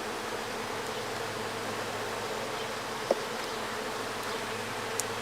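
Honeybees buzzing steadily around an open hive as its frames are inspected, with one small click about three seconds in.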